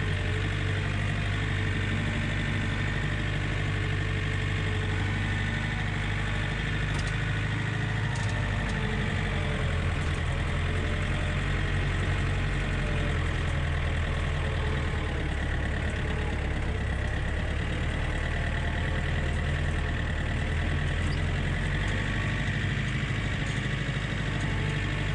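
John Deere tractor's diesel engine running steadily while plowing snow, its pitch shifting a little now and then.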